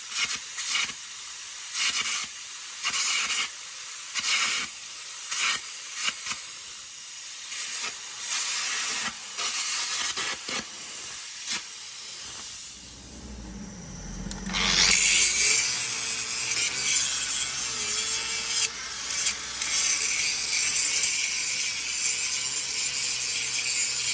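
Metal repair work on a scraper's frame. About twelve seconds of crackling hiss, a brief low rumble, then a steady high hiss that runs on.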